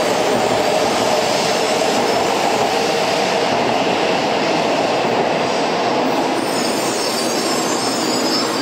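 500 Series shinkansen train pulling out of the platform, its wheels on the rails making a loud, steady running noise as the last cars go by. The noise eases slightly near the end.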